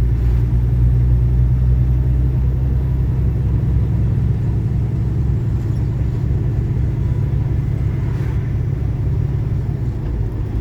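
Steady low engine and road rumble inside a semi truck's cab while driving.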